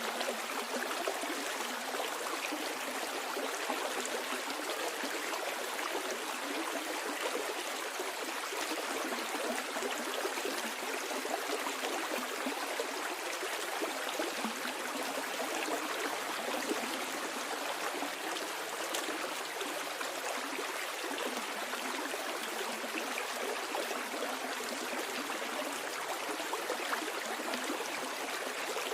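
Stream water flowing and babbling steadily over rocks, an even rush with small splashing trickles throughout.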